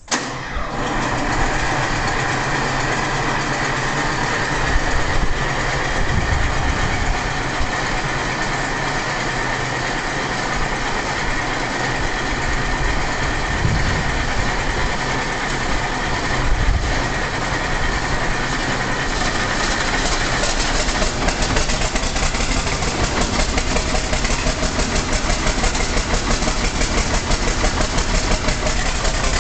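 A 1968 John Deere 5020's turbocharged six-cylinder diesel engine fires up suddenly on a cold start and runs a bit lumpy. Its beat settles into a more regular pulse after about twenty seconds as the turbo clears it out.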